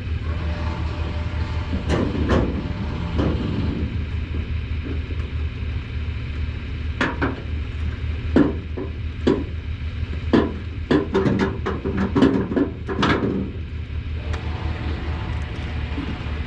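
Vehicle engine idling with a steady low rumble, with a string of sharp metallic clanks and knocks coming in quick succession through the middle.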